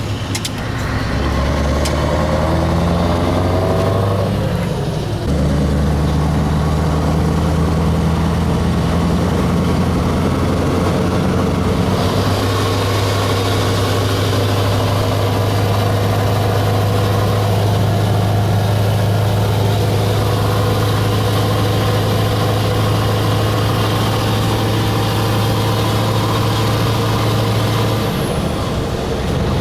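Scania 4-series V8 diesel truck engine running, held at steady revs that step up about a second in, again around five seconds and again around twelve seconds, then drop back near the end.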